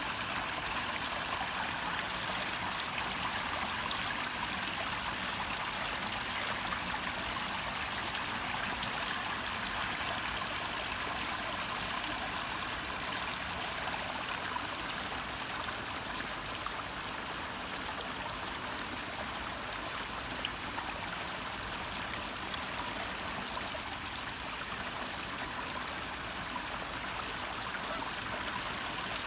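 Small waterfall splashing steadily, a constant rush of falling water.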